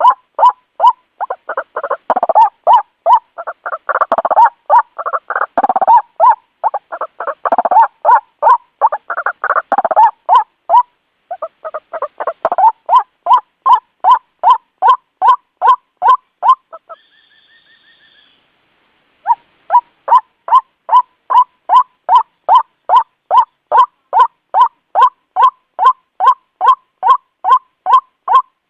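White-breasted waterhen calling: short, loud call notes repeated steadily about twice a second. The first ten seconds are busier, with overlapping, gurgling calls. Just past halfway a brief pause holds a short, faint high note before the steady series resumes.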